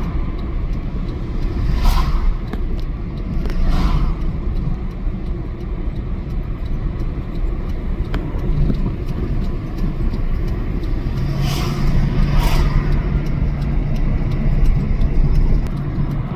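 Car driving along a road: a steady low rumble of engine and tyres, with a few brief louder swishes. A steady low hum joins about eleven seconds in.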